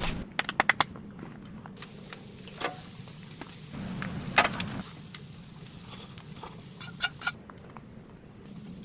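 Scattered sharp clicks and taps: a quick run of them in the first second, single ones spread through the middle, and a close pair about seven seconds in, over a faint low hum.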